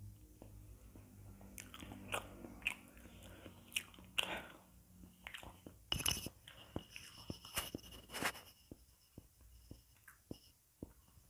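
Close-miked mouth sounds of chewing the last mouthful of Indomie Mi Goreng fried noodles: soft wet smacks and small clicks, picked up by a wired earphone's inline microphone held near the mouth. A few louder clicks come about six and eight seconds in.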